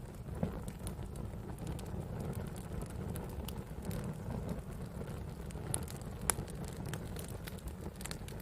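Wood campfire crackling: a steady low rumble of burning with scattered sharp pops and snaps. The loudest pop comes about six seconds in.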